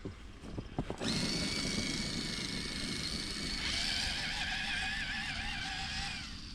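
Radio-controlled crawler trucks' electric motors and geared drivetrains whining under throttle. A steady high whine starts about a second in, a second wavering whine joins about halfway, and both cut off near the end.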